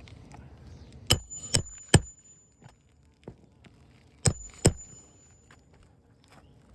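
Hammer blows on metal during shingle work: three quick strikes about a second in and two more a few seconds later, each leaving a high metallic ring.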